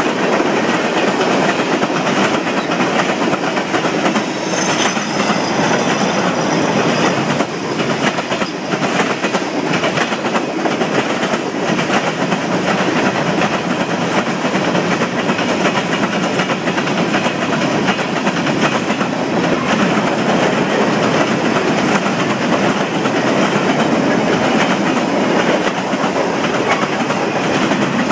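Norfolk Southern mixed freight train's cars rolling past at track speed: steady loud rolling noise with wheels clicking over rail joints. A faint high wheel squeal comes in briefly about five seconds in.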